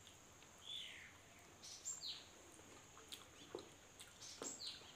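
Faint bird chirps: a few short whistled notes, each falling in pitch, about a second or two apart. Mixed with them are a couple of soft mouth clicks from chewing dumplings, near the end.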